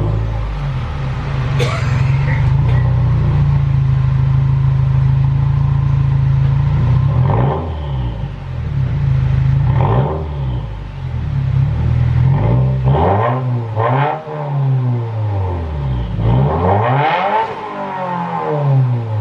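Subaru WRX's turbocharged 2.0-litre flat-four running through muffler-delete pipes: it idles steadily, then is revved several times with short throttle blips, the last rev held a little longer.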